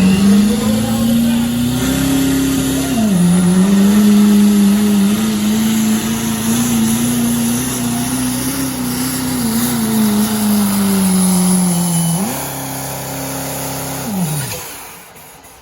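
Diesel pickup with a 2.6-inch smoothbore turbo running at full throttle under load in a truck pull, with a faint high turbo whistle over the engine. Engine speed dips about three seconds in, sags slowly, briefly climbs, then falls away near the end as the throttle comes off.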